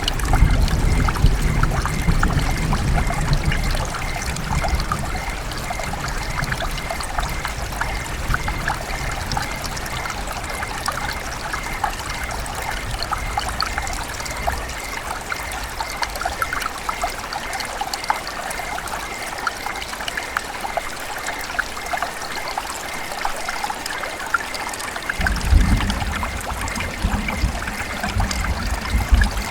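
River water trickling and babbling over stones, a steady splashy flow. A low rumble is added at the start and again about 25 seconds in.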